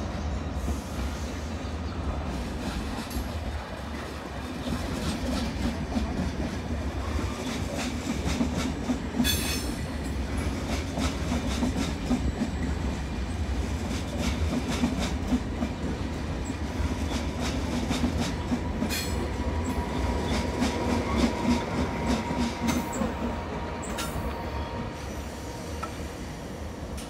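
A train rolling along the station tracks with a steady low rumble and irregular clicks of wheels over rail joints. A faint, thin wheel squeal comes in during the second half.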